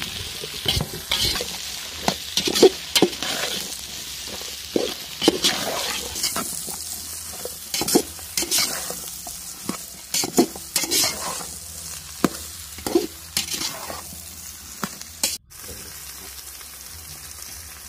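Sliced brinjal sizzling in hot oil in a metal pot while a metal ladle stirs it, scraping and knocking irregularly against the pot. Near the end the stirring stops and only the steady sizzle goes on.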